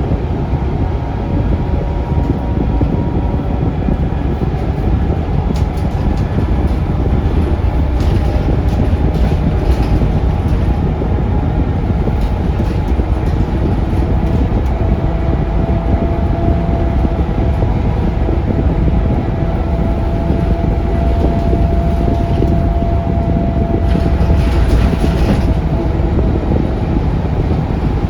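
Inside the cabin of a Scania K360UA articulated city bus on the move: steady rumble from its Scania DC9 360 five-cylinder diesel and the road, with a steady whine through the middle, scattered rattles and a short hiss near the end.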